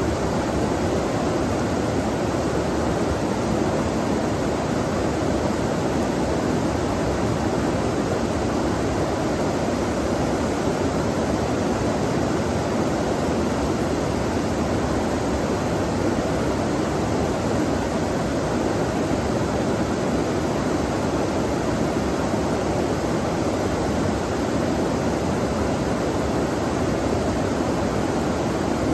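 Flowing stream water rushing steadily, an even noise without pause.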